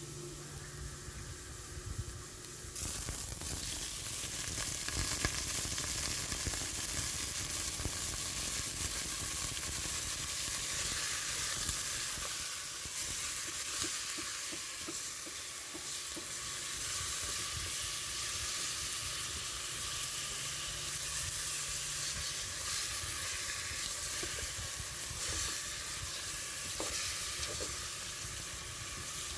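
Food frying in hot oil in a pan, a steady sizzle that gets louder about three seconds in, with a few light clicks later on.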